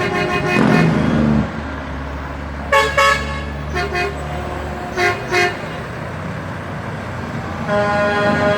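Truck horns honking over the low drone of engines: a long blast at first, a few short toots in the middle, and another long, steady blast starting near the end.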